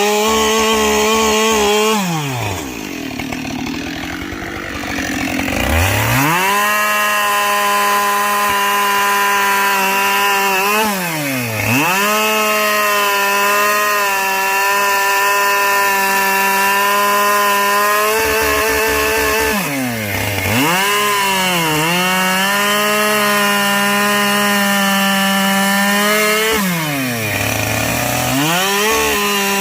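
Two-stroke chainsaw bucking logs at full throttle, the engine note dropping toward idle and revving back up about four times as the saw comes out of one cut and goes into the next.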